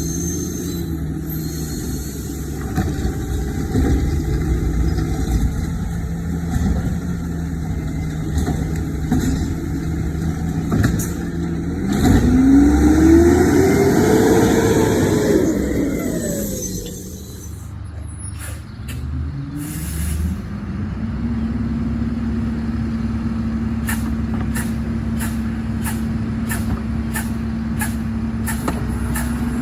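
Garbage truck engine idling, then revving up and back down for about five seconds near the middle, the loudest part. After a brief drop with a few sharp hisses and clicks, it settles into a steady, slightly higher idle.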